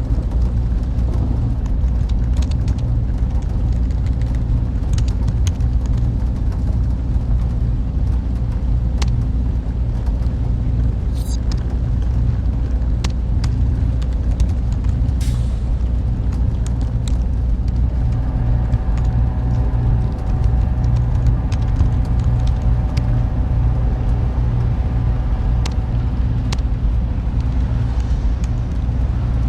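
Steady, loud low machine rumble with faint scattered clicks over it. About two-thirds of the way through, a faint higher steady hum joins in.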